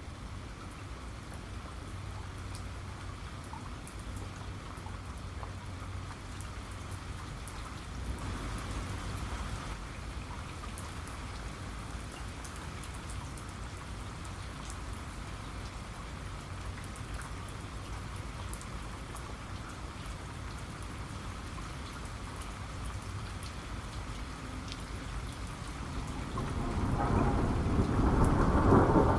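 Steady rain falling, with fine drop ticks throughout. Near the end a rumble of thunder builds and becomes the loudest sound.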